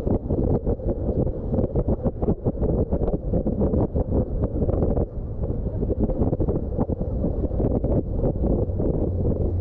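Wind buffeting the microphone on a moving boat: a heavy, low rumble with constant rapid flutter.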